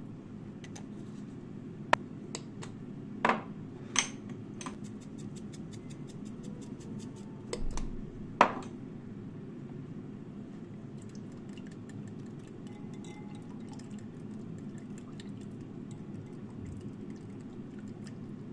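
Sharp clinks and knocks of kitchenware being handled, four or five louder ones in the first half, over a steady low hum and faint fine crackling.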